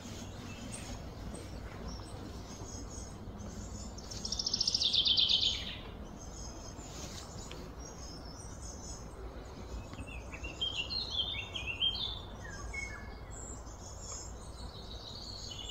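Wild birds calling over a steady low outdoor background. About four seconds in, one gives a loud, rapid trill lasting a second and a half. Around ten to twelve seconds in comes a run of quick, falling chirps.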